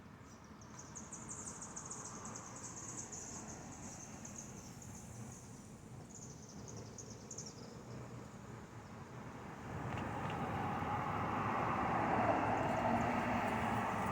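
High, pulsing insect buzz that stops about seven seconds in; from about ten seconds in, the rising rush of a passing road vehicle grows louder.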